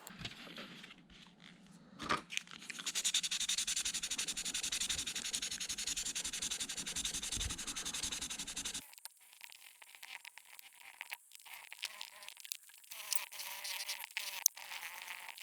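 Fine 600-grit sandpaper rubbed rapidly back and forth on a clear plastic model part, grinding down ejector-pin marks. The fast rasping stops abruptly about nine seconds in, giving way to quieter, intermittent scratching.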